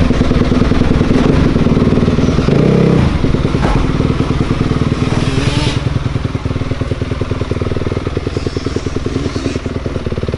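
Dirt bike engine running close by, loud at first and then settling into a steady, evenly pulsing run about three seconds in, a little quieter toward the end.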